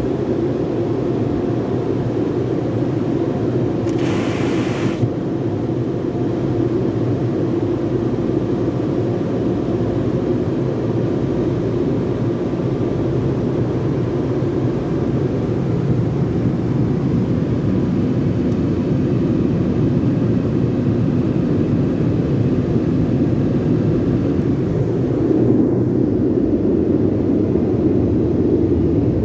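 Steady rumble and rush of automatic car wash tunnel machinery, with a brief burst of hiss about four seconds in.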